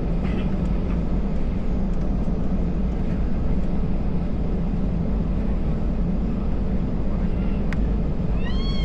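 Steady low rumble of an Airbus A320's engines and air system, heard inside the passenger cabin as the aircraft taxis before takeoff. Near the end, a short high cry rises and falls.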